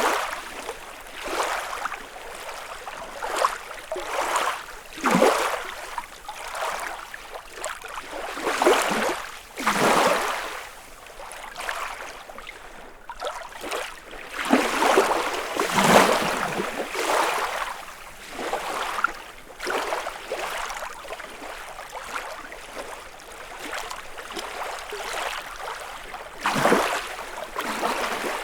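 Small lake waves lapping and breaking on the shore, one swell of splashing every second or two. Several stronger surges come in the middle, then a calmer run before another splash near the end.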